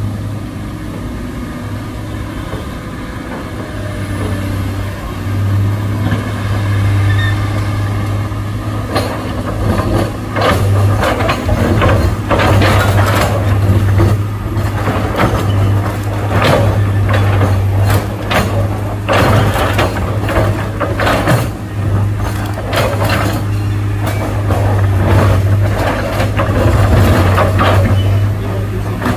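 Heavy diesel engine running steadily with a deep drone, joined from about nine seconds in by many short, sharp noises.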